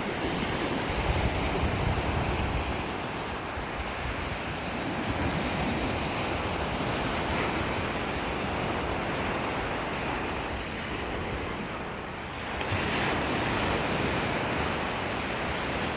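Ocean waves washing onto a beach, a steady surf that swells and eases, rising to a louder wash about thirteen seconds in, with wind on the microphone.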